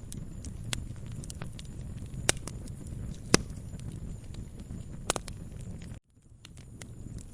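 Wood fire in a fireplace crackling: sharp pops, a few of them louder, over a low steady rumble. About six seconds in the sound cuts out suddenly, then fades back in over about a second.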